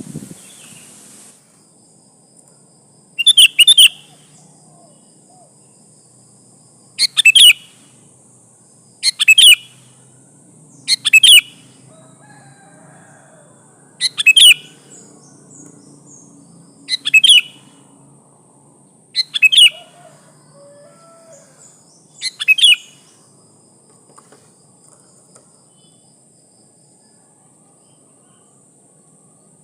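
Female sooty-headed bulbul giving short, loud chattering call phrases, eight in all at two- to three-second intervals, stopping about two-thirds of the way through. It is the female's call to males, used to lure them into answering.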